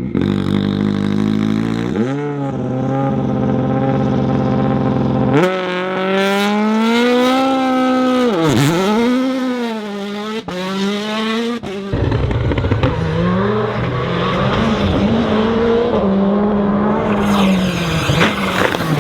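Rally car engines at full throttle, revving hard, rising in pitch and dropping sharply as they lift and shift gear, in several short clips of different cars. There are a couple of sharp cracks about ten and eleven seconds in, then rougher engine noise with loose gravel.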